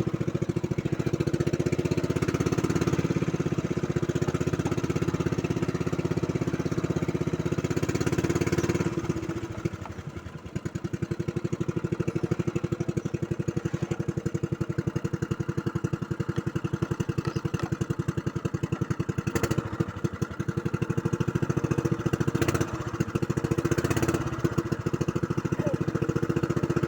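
A small engine running steadily with a fast, even pulse, dropping off briefly about ten seconds in before picking up again.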